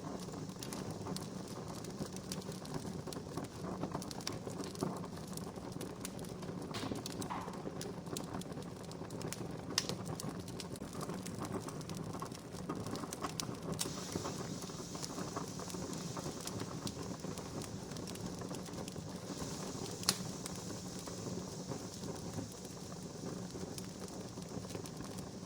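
Wood campfire crackling: a steady hiss full of small snaps, with a few sharper pops, loudest about twenty seconds in.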